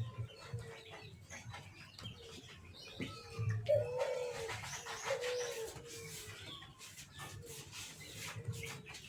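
Dove cooing in repeated low notes, with scattered light clicks and taps.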